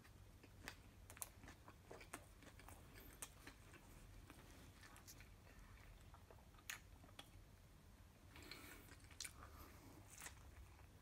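Faint close-miked chewing and biting of a burger: scattered wet mouth clicks and smacks, with a denser stretch of noise about eight to nine seconds in.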